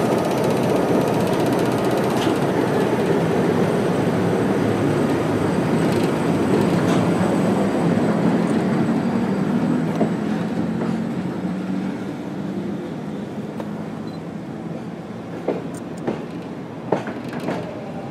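Train noise in a station: a steady rumble of wheels on track that fades after about ten seconds, followed by a few sharp clacks near the end.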